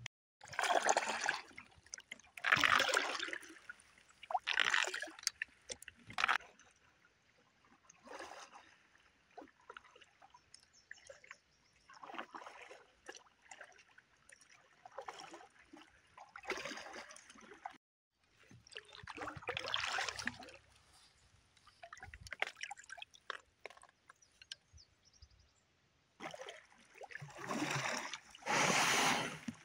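Canoe paddle strokes through the water, a splashy swish every couple of seconds, with longer pauses between some strokes.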